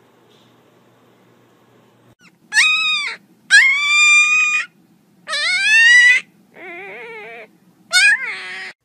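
Young puppy crying: five high-pitched, drawn-out cries, most about a second long, starting about two seconds in after a faint low hum.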